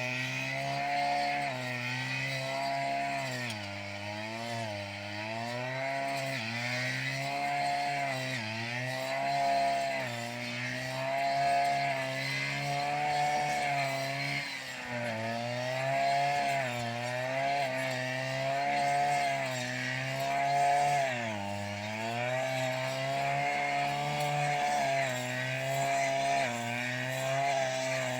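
A small petrol engine running, its pitch repeatedly dipping and recovering every second or two.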